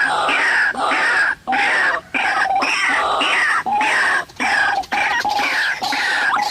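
White-breasted waterhen calls in a rapid, harsh, repeated series, a few calls a second with short gaps, played back from an MP3 recording as a trapping lure.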